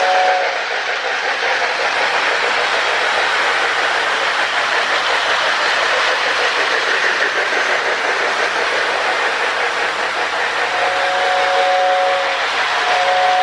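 O-gauge toy train running on its track with a steady loud rushing clatter, and a Lionel two-note air whistle in the baggage car: the tail of one blast at the start, then two more blasts near the end.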